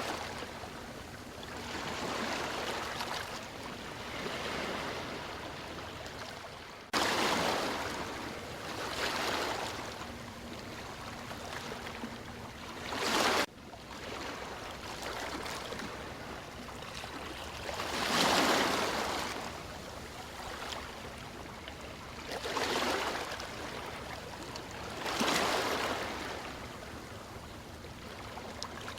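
Ocean waves breaking and washing in, one surge of surf every two to five seconds, each swelling and then fading. The sound cuts sharply twice, about 7 and 13 seconds in, as if the recording were spliced.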